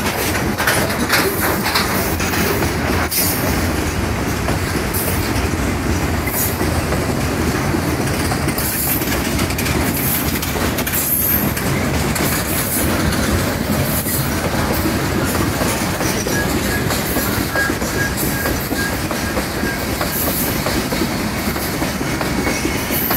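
Freight train of covered wagons rolling past: a steady rumble of steel wheels on the rails with irregular clacking over the rail joints. A faint wheel squeal comes in during the last third.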